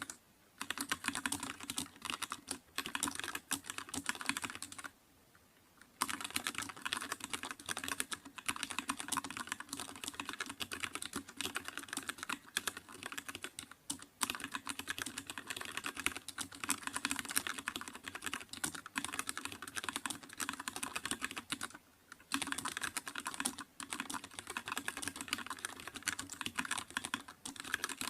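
Continuous fast typing on a computer keyboard: a dense stream of key clicks with brief pauses about five seconds in and again around twenty-two seconds.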